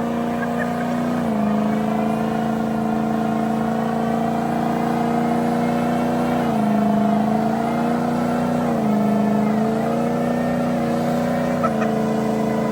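Car engine held at high, steady revs, its pitch dipping briefly and coming back up about four times.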